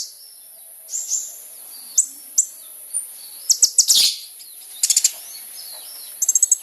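Kolibri ninja (a sunbird) singing: scattered high, thin chirps broken by short rapid trills, about 4 and 5 seconds in and again near the end. A steady high-pitched hiss runs underneath.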